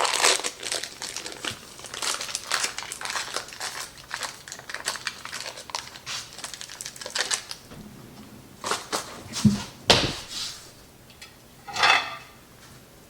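Kitchen handling noise: rustling and crinkling with scattered clicks, and a few sharper knocks about three quarters of the way through.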